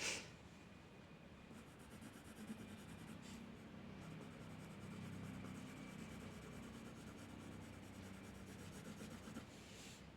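Drawing tool scratching and rubbing on paper, faint: a short sharp stroke at the start, another about three seconds in and one near the end, with steady shading strokes in between.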